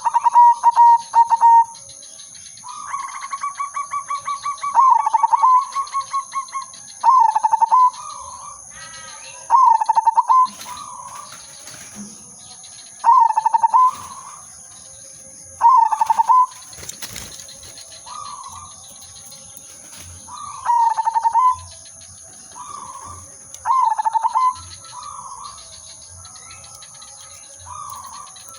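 Zebra dove (perkutut) cooing. A long, rapid, rolling run of soft notes comes about three seconds in, then short throaty coo phrases repeat every two to three seconds.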